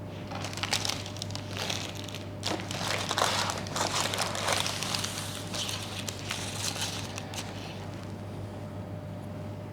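Irregular crinkling and scraping from handling the freshly baked brownies, over a steady low hum.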